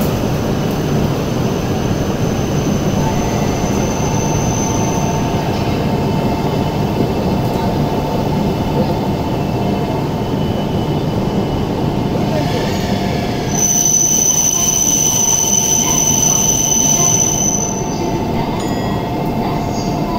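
Shinkansen train rolling past along the platform: a steady rumble of wheels on rail. A thin high wheel squeal sounds briefly about four seconds in, and a louder one lasts about four seconds from about thirteen seconds in.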